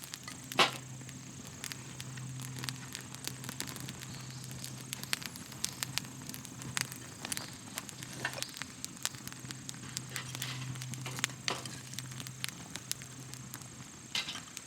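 Wood fire crackling in a small fire stand: irregular pops and snaps, with one sharper pop about half a second in.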